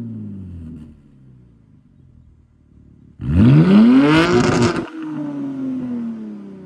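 BMW M3 Competition's twin-turbo inline-six exhaust being revved: the revs die away in the first second and it settles to a quiet idle. About three seconds in it is blipped hard, the pitch climbing steeply, then the throttle snaps shut and the revs fall slowly back.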